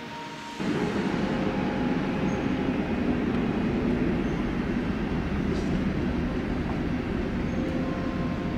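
Electric double-deck passenger train crossing a stone railway viaduct overhead: a steady, loud rumble of wheels on track that cuts in suddenly about half a second in.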